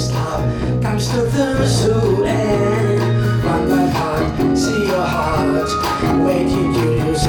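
Live band playing a smooth-jazz song, with sustained bass notes under a moving melodic lead line in an instrumental stretch.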